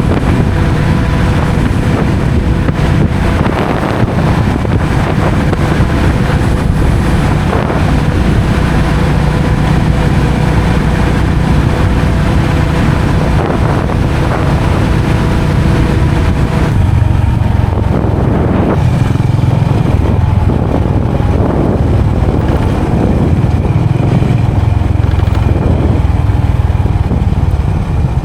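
An engine running steadily under heavy wind rumble on the microphone. The higher hiss drops away about two-thirds of the way through.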